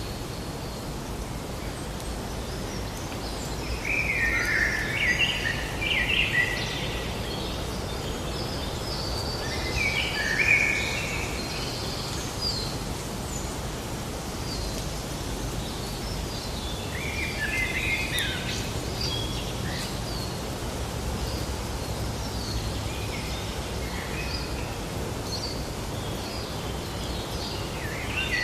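Several songbirds chirping and singing in short scattered phrases over a steady outdoor background noise.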